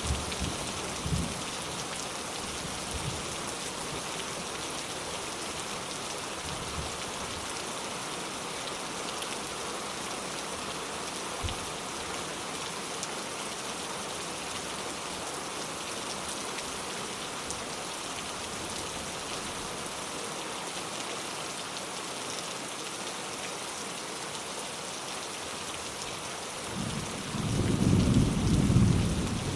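Steady rain falling, with a few soft low thumps in the first half. Near the end, a low roll of thunder swells up.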